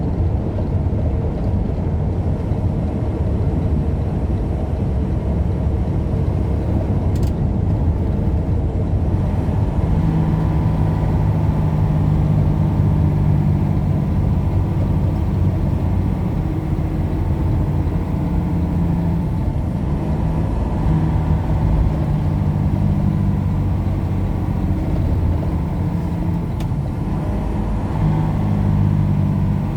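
A vehicle on the move: steady engine and road rumble, with the engine's hum coming through more clearly from about ten seconds in and changing pitch a few times.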